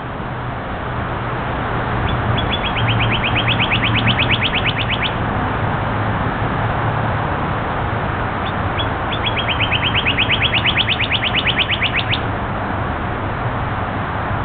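A songbird singing two trilled songs about three seconds apart, each a rapid run of short notes that speeds up and grows louder, over a steady background hiss and low hum.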